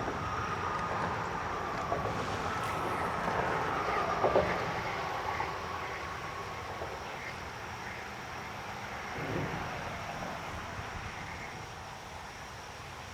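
Distant road traffic running steadily, with a faint tone that slowly falls in pitch over the first several seconds as a vehicle passes.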